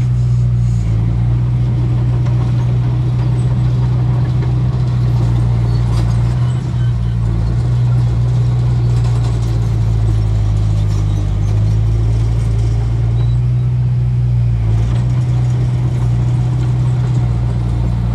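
Diesel engine of heavy earthmoving machinery, a bulldozer or dump truck, running steadily with a loud low drone.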